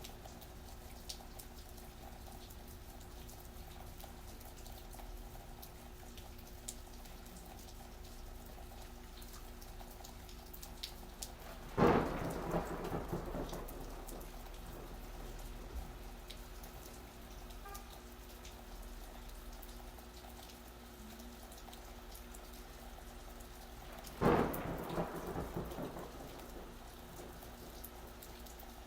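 Steady rain falling, broken by two sharp thunderclaps, one about twelve seconds in and another about twelve seconds later, each cracking suddenly and rumbling away over a couple of seconds.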